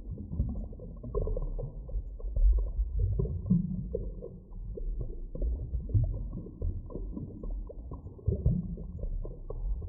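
Deep-water underwater ambience: a continuous heavily muffled low rumble with irregular soft knocks and gurgles, swelling a little around the middle and again near the end.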